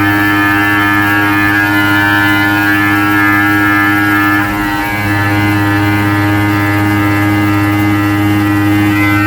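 Tormach 1100MX CNC mill running an adaptive toolpath in a billet part: a steady, many-toned machine whine from the spindle and the cutter, sped up three times, with a brief dip about halfway through.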